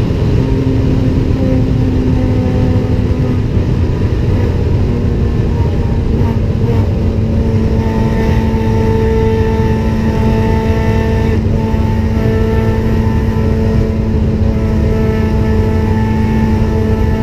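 Honda Civic Type R FD2's four-cylinder K20A engine held at high revs in sixth gear near top speed, heard from inside the cabin as a steady, even drone over a heavy low rumble.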